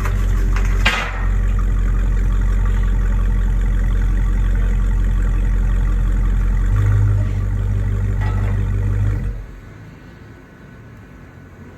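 A 2019 Dodge Charger Hellcat's supercharged 6.2-litre V8 idling on its stock exhaust, mid mufflers still fitted. It swells briefly about seven seconds in, then is switched off about nine seconds in.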